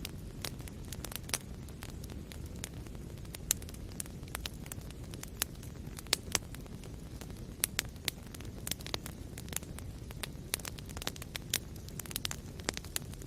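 Wood fire burning in a fireplace: a steady low rumble of flames with irregular sharp crackles and pops from the burning logs, a few louder ones scattered through.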